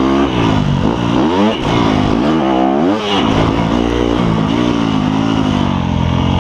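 Dirt bike engine being ridden, its pitch climbing and dropping several times in the first three seconds as the throttle is worked, then running lower and steadier.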